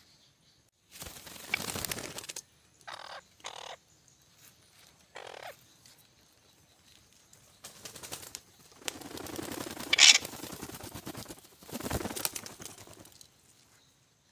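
Parrots giving harsh squawks: a longer call, a few short squawks, then a longer stretch of screeching calls that is loudest about ten seconds in.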